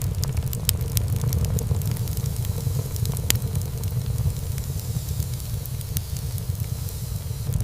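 Wood fire burning in a fireplace: many small crackles over a steady low rumble, with one sharper, louder pop about three seconds in.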